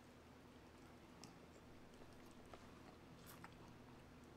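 Faint chewing and mouth sounds of people eating, with a few soft clicks over a low steady hum.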